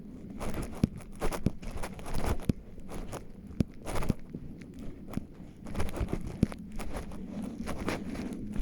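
Footsteps crunching on a forest path, uneven steps with sharp clicks and brushing swishes.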